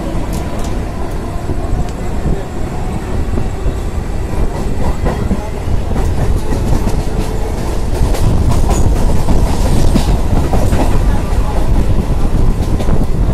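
Electric multiple-unit (EMU) local train running at speed, heard from inside the coach: a steady rumble with wheels clicking over rail joints and points, getting louder about halfway through.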